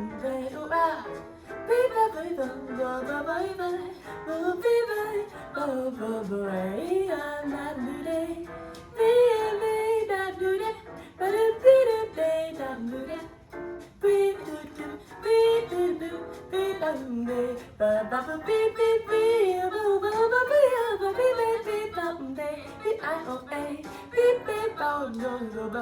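A woman scat-singing a fast jazz solo in wordless syllables, with quick runs that swoop up and down, over a light instrumental accompaniment.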